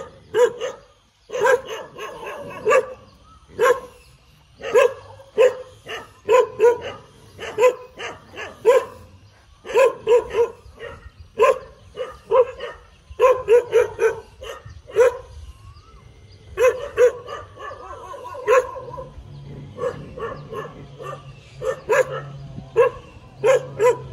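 A dog barking over and over in quick runs of short barks, with a pause of about a second midway.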